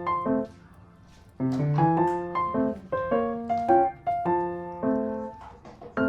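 Background piano music: a light melody of struck notes that breaks off briefly about half a second in and picks up again about a second and a half in.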